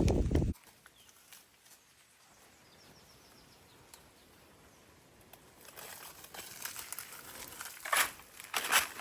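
Rustling and crinkling, as of dry leaves or plant material being handled, growing from about the middle with two sharper bursts near the end. A quiet outdoor stretch before it holds a few faint high bird chirps.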